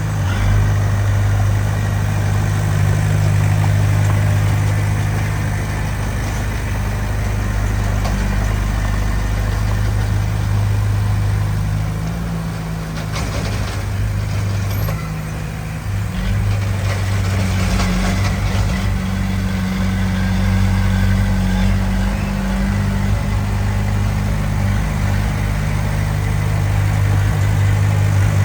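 Heavy earthmoving machine's diesel engine running steadily with a deep hum, easing off briefly about halfway through before picking up again.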